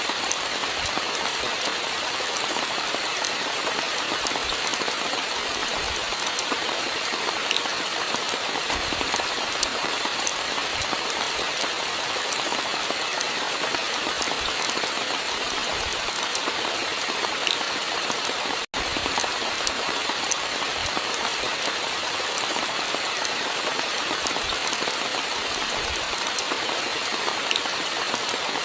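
Steady rain falling, an even hiss with scattered small drop ticks. The sound cuts out for an instant about two-thirds of the way through, then resumes unchanged.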